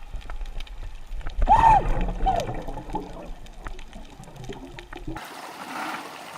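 Water splashing and sloshing, with a short loud cry about a second and a half in and a shorter one just after.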